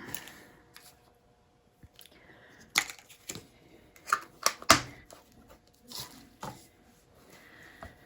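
A handful of light knocks and clicks, the sharpest a little before the middle, as the freshly poured canvas is handled and spun.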